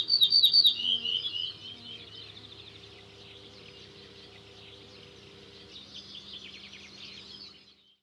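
Songbirds singing: quick chirping phrases, loudest in the first second and a half, then quieter trills and a last flurry near the end before fading out.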